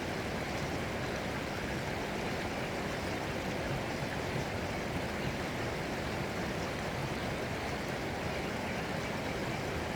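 Running water, a steady, even rush with no breaks or separate splashes.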